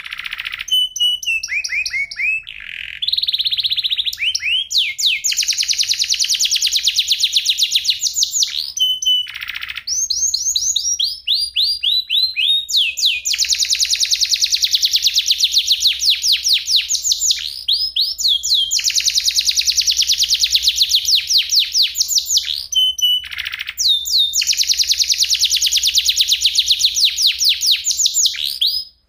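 Domestic canary singing long, rapid trills of quickly repeated high notes, phrase after phrase with only brief breaks between them.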